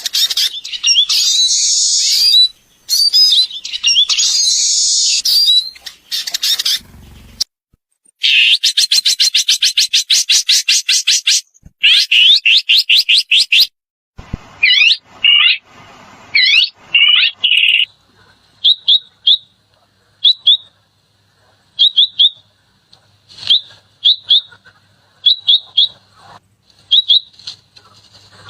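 Songbirds singing, several different songs one after another: loud rapid song phrases at first, then a fast buzzy trill, then swooping whistled notes, and near the end short high chirps given in twos and threes about once a second.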